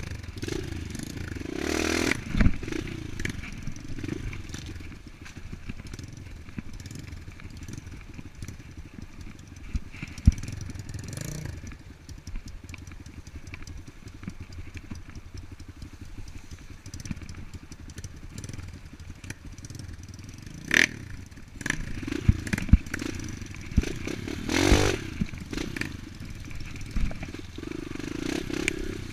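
Enduro dirt bike engine running over rough ground, its revs rising and falling several times, with scattered knocks and clatter.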